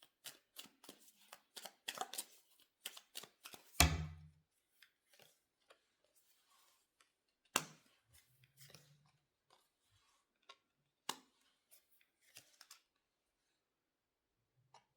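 Tarot cards being shuffled by hand: a quick run of crisp snapping clicks for about four seconds, a heavier knock of the deck near four seconds in, then scattered single card clicks.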